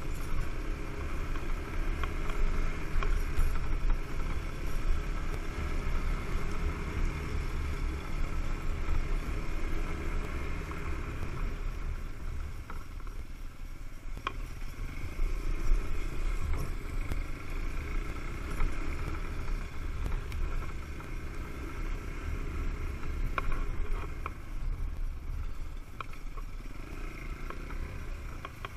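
Single-cylinder dual-sport motorcycle engine running under way on a dirt track, its level dipping briefly about halfway through. A heavy rumble of wind buffets the helmet-mounted microphone, with a few sharp knocks from the bumps.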